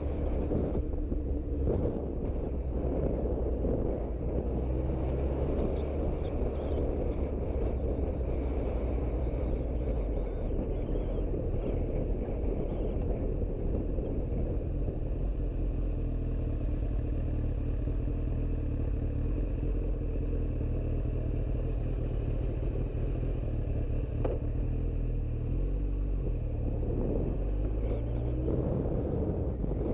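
Suzuki GSX-R 1000 inline-four engine running steadily while riding, with road and wind noise. Near the end the engine pitch rises and falls a few times.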